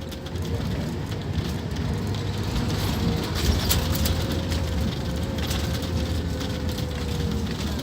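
Scania K230UB Omnilink single-deck bus running, its diesel engine giving a steady low rumble. A thin, steady whine sinks slightly in pitch near the end, and light rattles and clicks come through.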